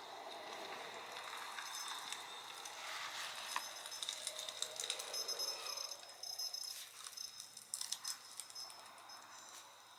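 Light clicking, clinking and rattling of small hard objects being handled, in scattered quick strokes that thin out and grow quieter near the end, over a soft hiss.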